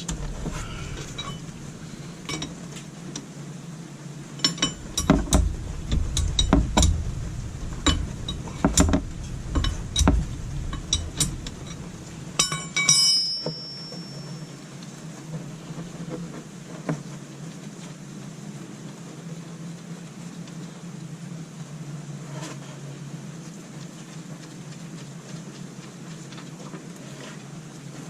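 A run of sharp metal clinks and taps from a wrench and bolt being worked loose on the Vespa GTS 300 engine, ending with one ringing clink about thirteen seconds in. After that, a steady even wash of engine oil draining into the drain pan.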